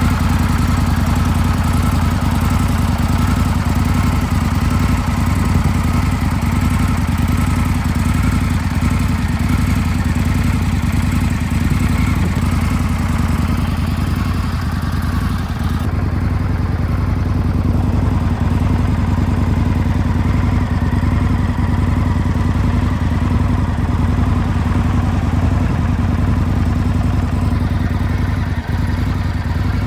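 2025 Indian Scout Bobber Limited's 105 hp V-twin engine idling steadily, with no revving.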